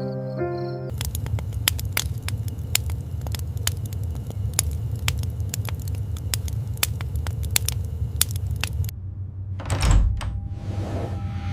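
A low rumble with irregular sharp clicks and crackles for about eight seconds. It cuts off, followed by a loud whoosh about ten seconds in.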